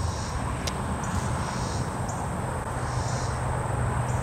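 A vehicle on a nearby road, its low rumble building over the second half, over a steady outdoor hiss. Short high buzzes repeat about once a second.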